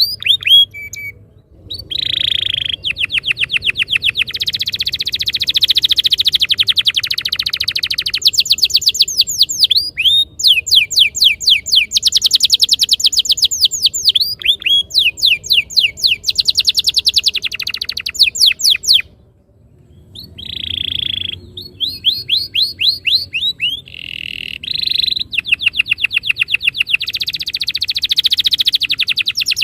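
Domestic canary singing long, rapid trills of repeated notes (a rolling 'ngerol' song), with a short break about a second and a half in and another about twenty seconds in.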